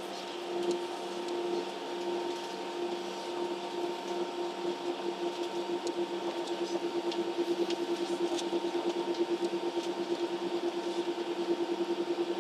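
Steady engine hum heard inside a jet airliner's cabin on the ground before takeoff. From about halfway in it takes on a fast, even throb, with a few faint ticks over it.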